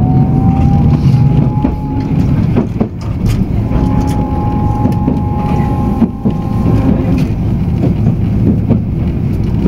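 Tokyu Setagaya Line tram car running along the track: a steady low rumble of wheels on rail with a thin motor whine and scattered clicks over rail joints.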